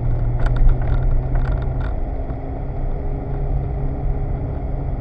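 BMW E30 rally car's engine running steadily under load, heard from inside the cabin over road noise. A few short knocks and rattles come in the first two seconds.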